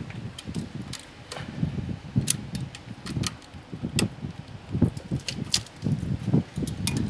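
A run of irregular sharp metallic clinks and knocks over low handling thumps, typical of tow chains, hooks and gear being handled while a towed truck is unhooked.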